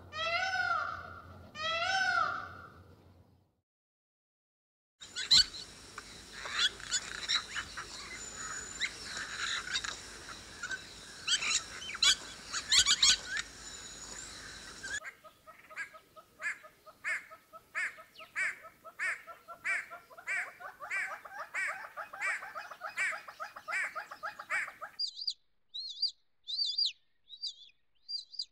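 A run of bird calls from different birds. It opens with three wailing calls from a white peafowl, each rising then falling, about a second apart. After a short gap comes a busy mix of bird calls and clicks, then a call repeated about twice a second, and near the end short high chirps.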